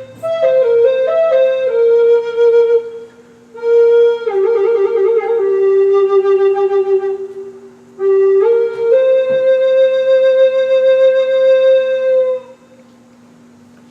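Flute playing a slow melody in three phrases, with a wavering ornament in the middle phrase and a long held note at the end. A steady drone sounds underneath and carries on after the flute stops near the end.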